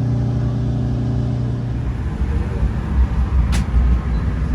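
Alaska Railroad passenger train running: a steady low hum that gives way about two seconds in to a louder, uneven low rumble, with a single click partway through.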